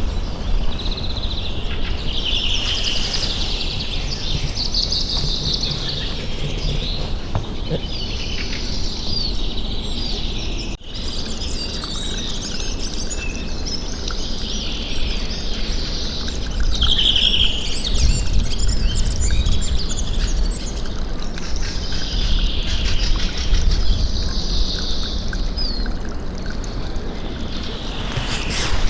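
Several songbirds singing and chirping at once, short trills and calls overlapping throughout, over a steady low background rumble.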